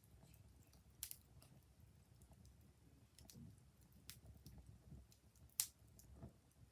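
Fire crackling quietly, with irregular sharp pops, the loudest about five and a half seconds in.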